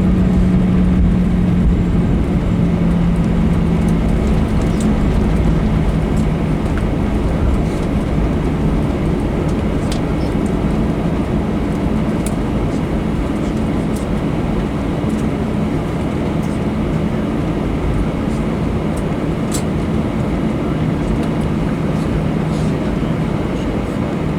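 Cabin noise inside an Airbus A321 on the ground just after landing: a steady rumble with a low engine hum that drops slightly in pitch and grows a little quieter over the first several seconds as the jet slows.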